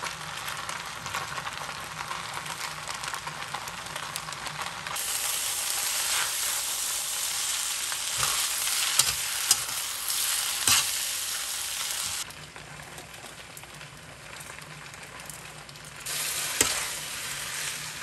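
Food sizzling as it is stir-fried in a hot pan, with a few sharp knocks. The sizzle gets louder about five seconds in, drops back around twelve seconds, and rises again near the end.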